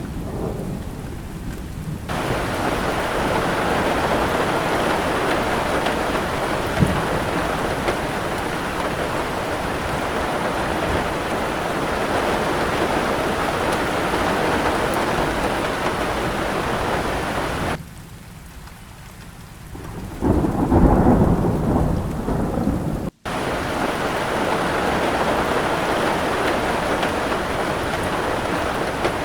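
Steady heavy rain with rolling thunder; a loud peal of thunder rumbles about two-thirds of the way in. The rain drops away briefly before it, and the sound cuts out for an instant just after.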